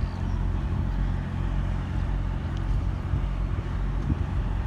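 Tugboat's diesel engine running at idle in forward gear as it tows a heavily loaded barge: a steady, low drone.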